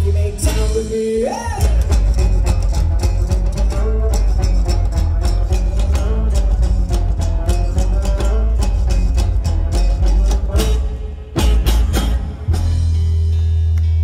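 A live rockabilly band playing, with a singer over guitar, bass and drums. About eleven seconds in come several hard band hits, then a low note held steady.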